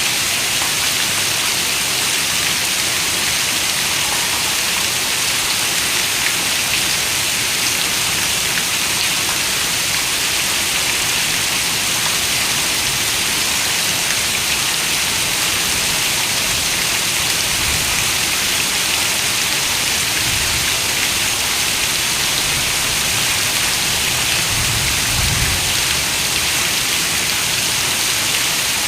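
Heavy rain falling steadily on a window, a dense, even hiss of drops. A few soft low rumbles come in during the second half.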